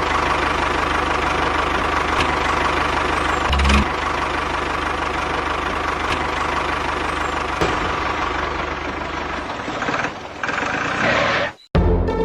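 Mini tractor engine running steadily with a rapid knocking rattle, cutting off sharply near the end.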